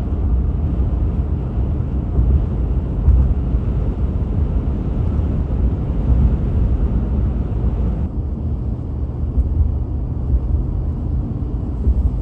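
Steady low rumble of a vehicle driving, engine and tyres on the road heard from inside the cabin; the higher hiss drops away about eight seconds in.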